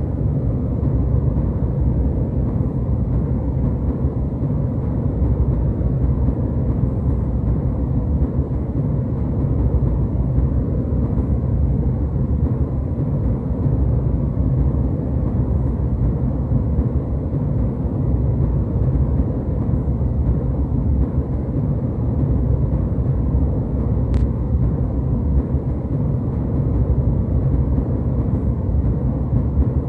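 Jet airliner cabin noise in flight: a steady, even low rumble with no change in level. One faint click about 24 seconds in.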